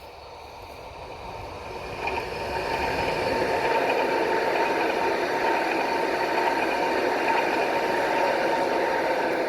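Electric passenger train approaching and passing, growing louder over the first three seconds and then holding steady: the rumble and rattle of the wheels on the rails with a steady whine.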